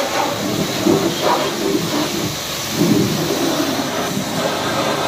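High-pressure washer jet spraying water onto a muddy two-wheeler, a steady loud hiss with a few rougher swells as the spray hits different parts.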